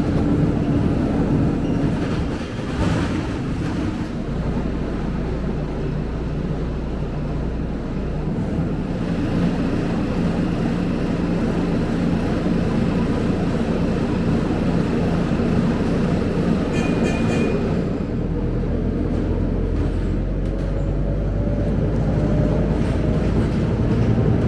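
Scania K270UB single-deck bus running: a steady drone of engine and road noise with low hum.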